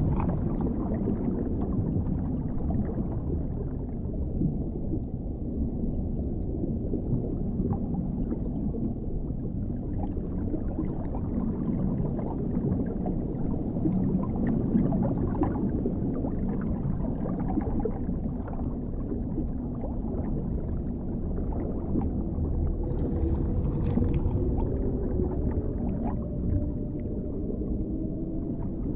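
Dark underwater ambience: a steady, muffled low rumble of water with faint scattered crackles, and a faint drawn-out tone near the end.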